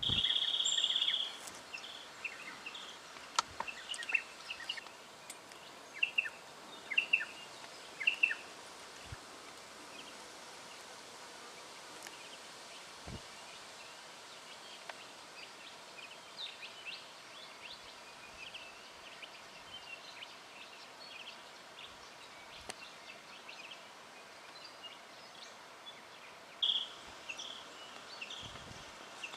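Striated pardalote calling: a high note held for about a second at the start, then scattered short, clipped high notes, with another run of calls near the end.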